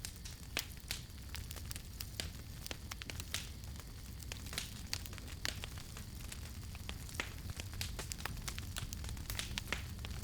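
Campfire crackling: irregular sharp pops and snaps, several a second with some louder than others, over a low steady rumble.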